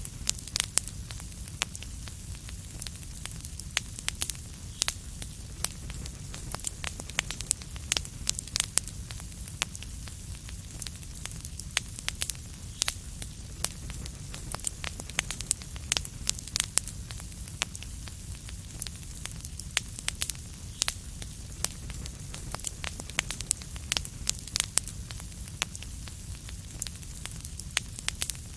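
Fireplace fire crackling steadily: frequent sharp, irregular pops and snaps over a low, even rumble.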